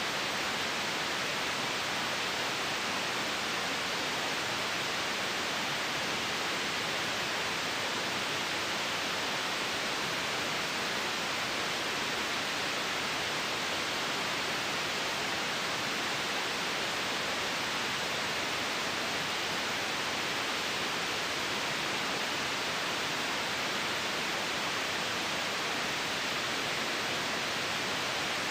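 White noise: a steady, even hiss that does not change, brightest in the upper-middle range.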